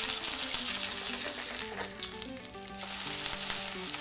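Corn fritters (green-corn batter) frying in hot oil in a pan: a steady, dense sizzle of bubbling oil.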